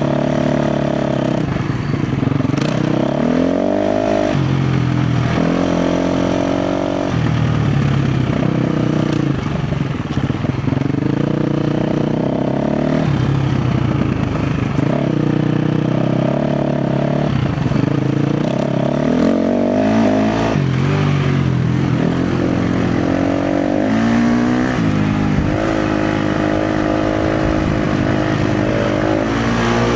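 KTM 350 XC-F's single-cylinder four-stroke engine being ridden off-road, revving up and dropping back again and again every few seconds as the throttle is worked, with a few knocks from the bike.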